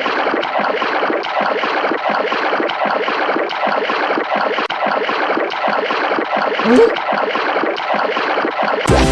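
Dense, steady splashing of water, a cartoon sound effect, with a short rising squeak about two thirds of the way through.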